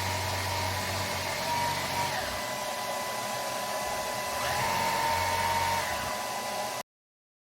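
Dreame T20 cordless stick vacuum running: a steady rush of air with a whine. A lower hum drops out about two seconds in and comes back about four and a half seconds in, with the whine gliding in pitch each time.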